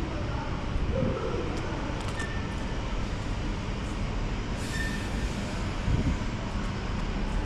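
Steady low rumble of a truck's engine and running noise heard inside the cab, with a few faint clicks and rattles.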